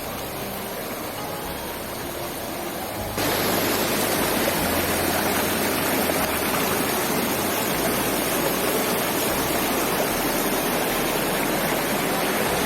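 Rushing water of a small waterfall, a steady hiss that turns abruptly louder about three seconds in.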